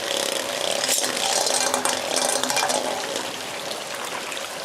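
Steady hiss of heavy rain, with the whir of Beyblade spinning tops turning in a plastic stadium and a few light clicks as they touch.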